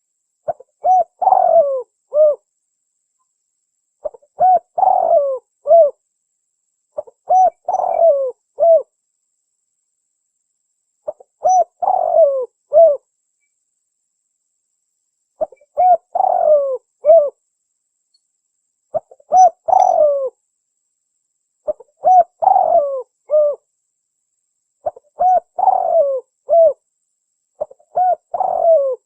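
Spotted dove (tekukur) cooing: its repeated lure call, nine phrases in all, each a short run of low coos closed by a separate final note, with dead silence between phrases.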